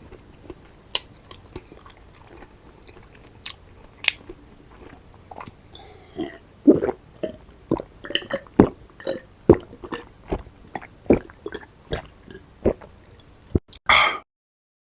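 A person chewing and biting food, with many short, sharp mouth clicks that come more often in the second half. The sound stops abruptly near the end.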